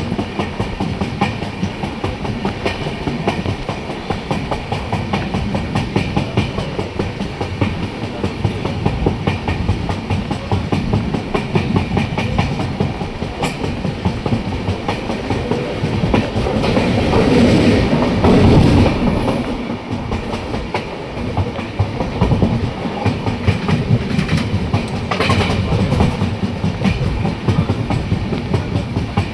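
Passenger train running along the track, heard from an open coach doorway: wheels clattering over rail joints in a steady clickety-clack with a low rumble, growing louder for a couple of seconds past the middle.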